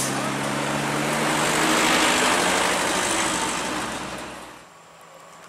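Heavy diesel engine running steadily under a loud hiss that swells and then drops away sharply about four and a half seconds in.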